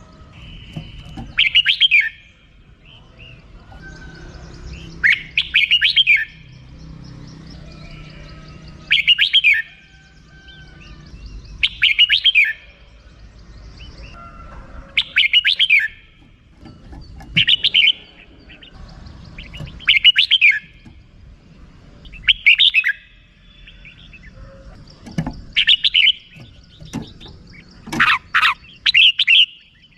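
Red-whiskered bulbul giving its short, repeated 'rik' call in brief bursts every two to three seconds, with a quicker run of calls near the end.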